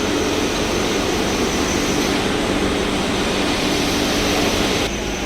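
Tea-processing machinery running: a loud, steady mechanical noise with a constant hum and a thin high whine. The sound changes abruptly near the end.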